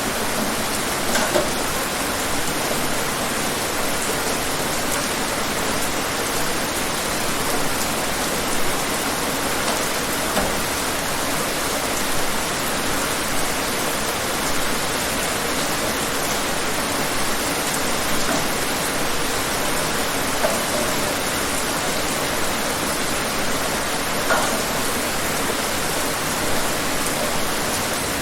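Steady rain falling, an even hiss with occasional louder drops splashing close by.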